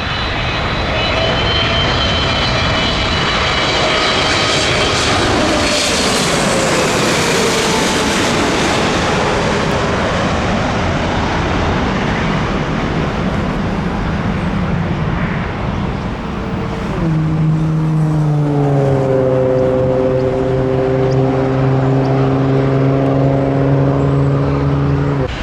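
Jet airliner passing low overhead on landing approach: the engines' whine falls in pitch as it goes over, with a rush of noise at its loudest. Later a steady low drone with a slowly falling pitch starts and holds.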